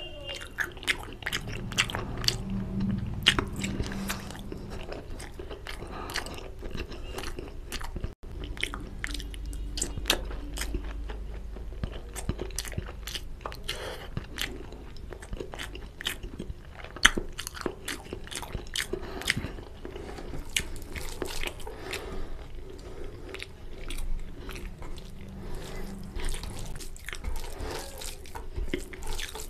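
Close-miked chewing and mouth smacking of a person eating curry and rice by hand, a steady run of short sharp clicks with one louder smack a little past the middle.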